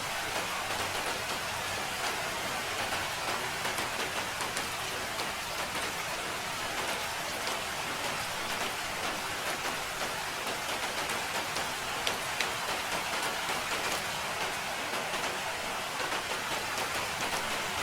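Steady rain falling, a constant even hiss with scattered ticks of individual drops.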